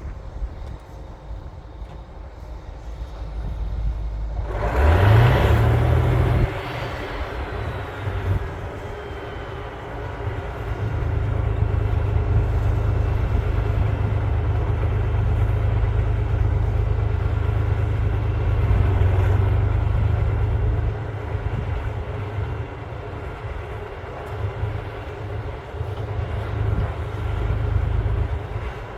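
Cat D9L bulldozer's diesel engine running as it pushes overburden. About five seconds in, the engine revs up with a rising pitch and a short loud rush of noise, then it works under steady heavy load for about ten seconds before easing off.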